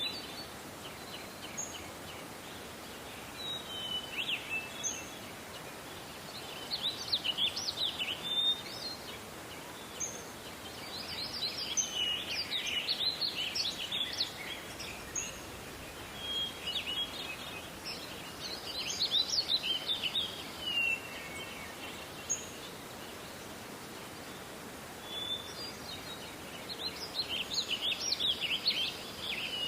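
Songbirds singing in a forest over a steady background hiss, with bursts of fast, high chirping song every few seconds and short single notes in between.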